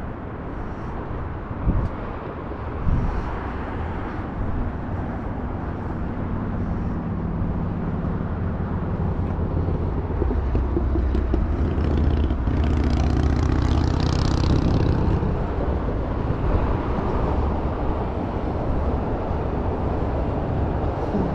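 A motor vehicle driving: steady low road and engine rumble that builds slightly through the middle, with two sharp thumps in the first few seconds.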